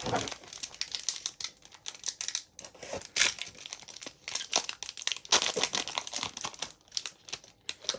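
A trading card pack's plastic wrapper being torn open and crinkled, with irregular crackling and rustling as it is handled.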